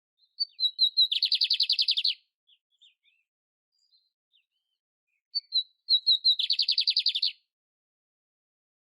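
Canary singing: two phrases, each opening with a few short separate high notes and running into a fast, rattling trill about a second long, the second phrase coming about five seconds after the first.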